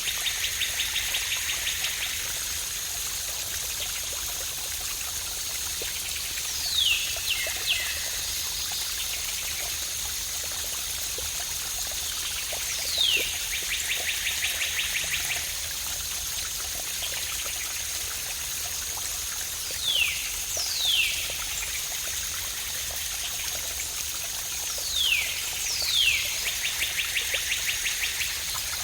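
Waterfall water running steadily, with a songbird repeating the same phrase about every six or seven seconds: one or two quick falling whistles, then a fast trill. A thin steady high whine runs underneath.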